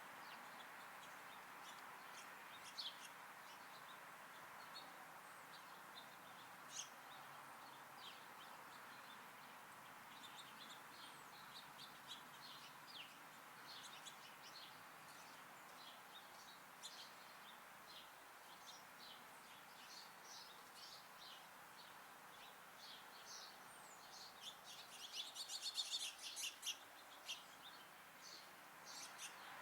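Small songbirds at a backyard feeder chirping faintly here and there over a steady background hiss, with a quick flurry of chirps near the end.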